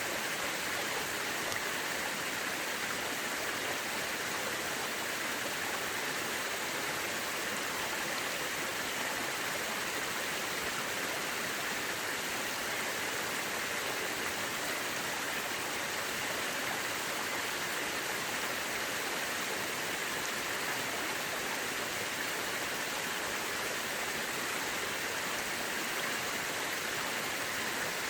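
Mountain river rushing steadily over rocks, an even hiss of water with no breaks.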